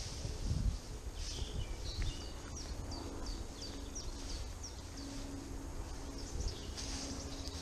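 A songbird singing a run of about eight short, high notes, each sliding downward, about three a second, over a steady low outdoor rumble.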